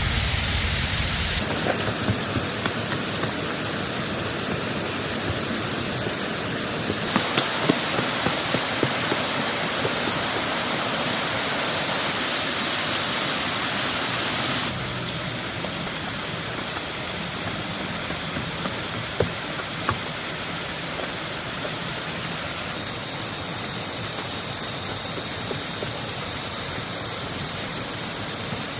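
Heavy rain falling steadily, a dense hiss with scattered sharper drop hits. It changes abruptly several times and drops a little quieter about halfway through.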